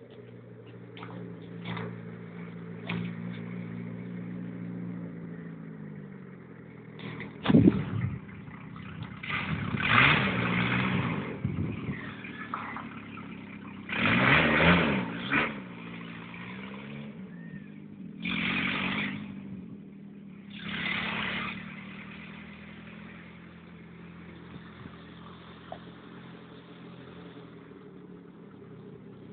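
Opel Ascona engine running with no exhaust system fitted, so the sound comes straight from the open manifold. It is revved hard in several short bursts, with a sharp bang in the first one, and drops back to a steady lower note between bursts and for the last several seconds.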